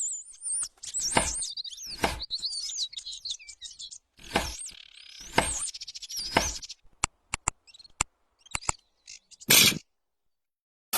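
Birds chirping in high, wavering whistles, mixed with scattered knocks and a quick run of sharp clicks, then a short burst of noise near the end.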